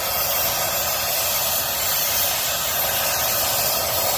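Brazing torch flame hissing steadily on a copper refrigerant line.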